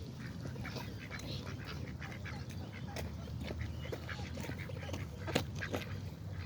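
A dense chorus of wetland birds calling, with many short calls overlapping throughout.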